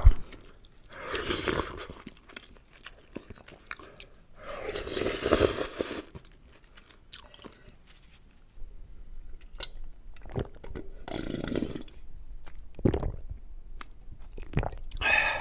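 Close-miked eating of Nongshim Shin Ramyun Gunmyeon noodles: wet chewing with small clicks, broken by several longer noisy slurps of about a second each, a few seconds apart.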